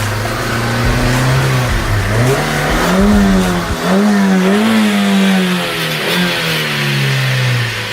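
Car engine revving, its pitch climbing and sinking over several seconds: it holds low early on, rises about three seconds in, stays high, then drops away near the end.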